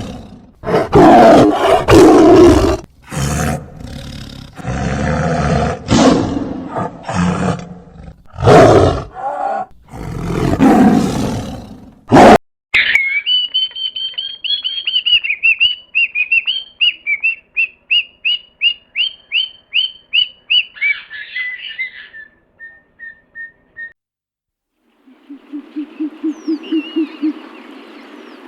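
A string of separate animal calls: for about twelve seconds, loud roars in repeated bouts; then a bird calling in quick, high repeated notes for about ten seconds, ending in a few shorter, lower notes. After a brief silence, near the end, a low, rapid owl-like hooting begins.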